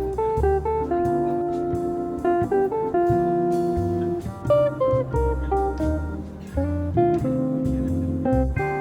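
Background music: a relaxed jazz track led by plucked guitar notes over a walking bass.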